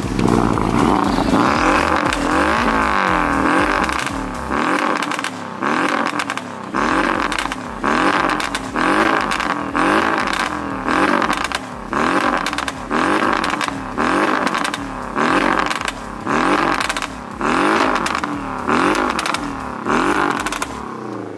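Porsche 718 Boxster's engine revved while the car stands parked. It is held up for the first few seconds, then blipped over and over, about once a second, each rev rising and falling in pitch.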